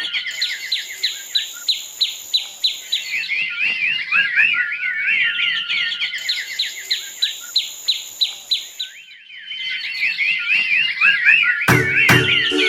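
Small birds chirping and twittering in quick runs of short high notes, dropping away briefly about nine seconds in. A music track with a beat comes in near the end.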